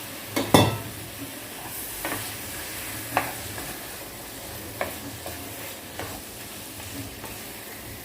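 Chicken pieces sizzling in a pan of onion-tomato masala while being stirred with a spoon, with a steady frying hiss and scattered knocks and scrapes of the spoon against the pan, the loudest about half a second in.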